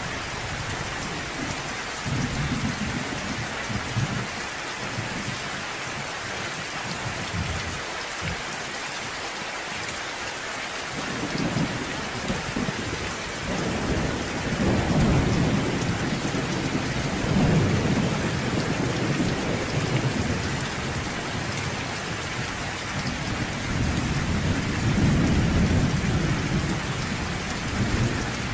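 Steady rain pattering down while thunder rumbles, faintly a couple of seconds in, then louder and longer from about eleven seconds on.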